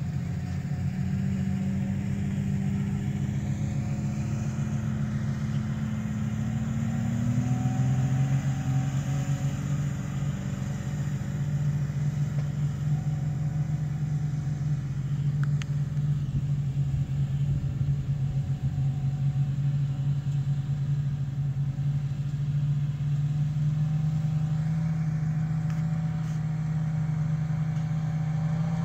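Jeep engine running steadily under way on a dirt trail. Its note changes about seven seconds in, then holds even.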